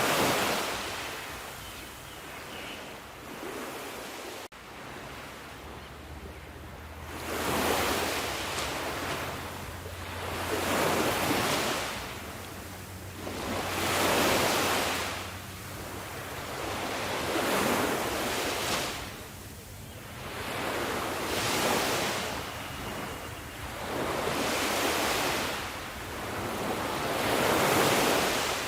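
Ocean waves breaking and washing up the shore, a surge coming in about every three to four seconds.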